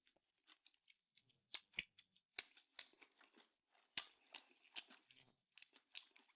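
Close-miked chewing: a person eating soft food, with irregular mouth and teeth clicks, a few louder than the rest.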